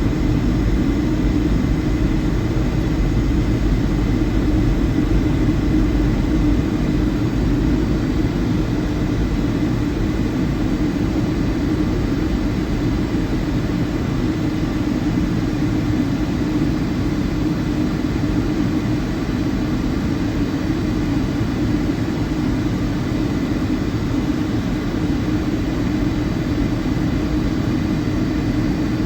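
Steady cabin noise of a Boeing 757-200 in flight, heard from inside the cabin: a constant low drone of the engines and airflow, with a faint steady high whine.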